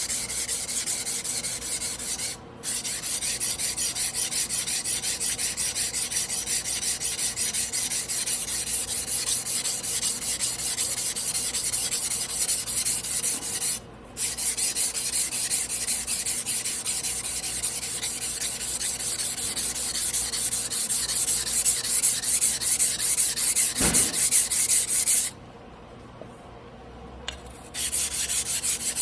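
Carbon-steel yanagiba blade rasping back and forth on a whetstone in steady hand-sharpening strokes. There are brief pauses about two seconds in and midway, and a longer pause near the end.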